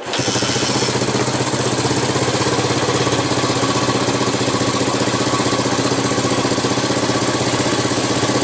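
Air-cooled single-cylinder scrambler motorcycle engine idling steadily, with an even pulse.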